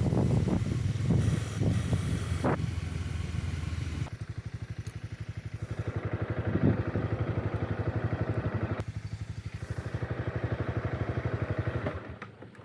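Honda CB300R single-cylinder motorcycle engine, first under way with wind noise, then running slowly with an even, rapid pulsing beat. The engine sound falls away sharply near the end.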